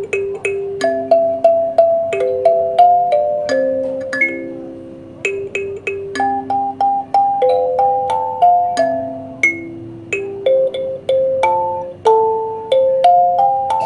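Kalimba (thumb piano) playing a lively melody, its metal tines plucked one after another and left ringing, often with a lower note sounding beneath the tune.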